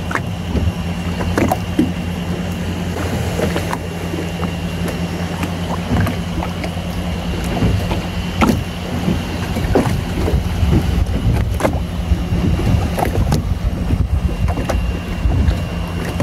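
A boat's engine running steadily, a low hum with a faint high whine over it, broken by scattered small splashes and knocks of water.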